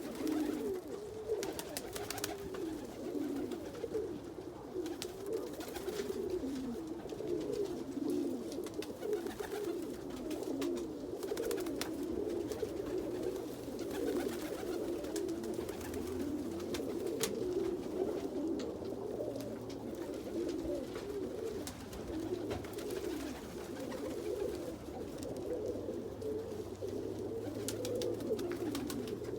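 Fancy pigeons cooing, several birds overlapping in a continuous, wavering chorus of low coos, with scattered faint clicks.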